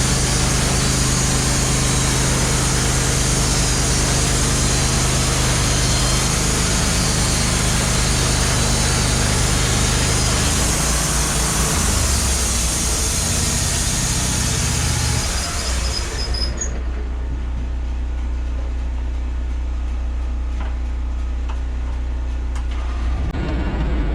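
Wood-Mizer LT15 Wide band sawmill cutting through a hemlock log, the engine running under load with the blade hissing through the wood. About two-thirds of the way through, the cutting noise stops suddenly as the blade leaves the cut, and the engine runs on steadily.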